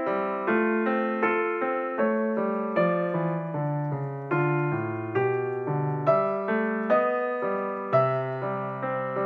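Background piano music: a gentle melody over low notes, struck about twice a second in a steady rhythm.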